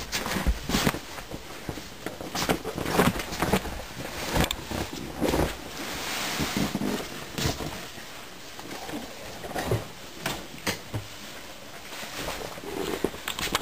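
Irregular thumps, scuffs and fabric rustling as a limp body is dragged by the ankles across the floor and bundled into a plastic tub, with a longer rustle about six seconds in.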